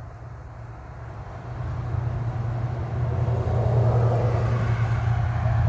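Road traffic: a vehicle's low rumble and tyre noise that grows louder about a second and a half in and stays loud as it passes.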